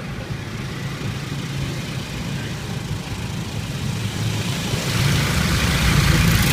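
Car wash machinery running around a car, heard from inside the cabin: a steady low rumble, joined about five seconds in by a louder hissing rush of spray or air.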